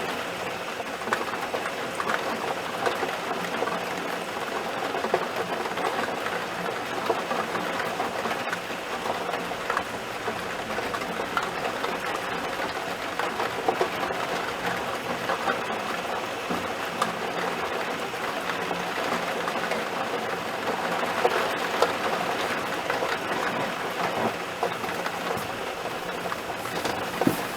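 Heavy rain falling in a thunderstorm downpour, a steady hiss with many small drop ticks.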